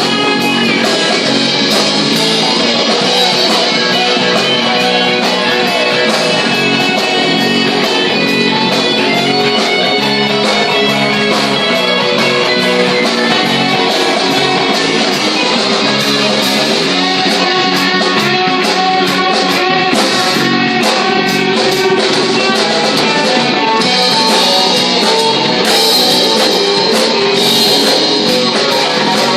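Live rock band playing, electric guitars with a drum kit, steady and loud throughout.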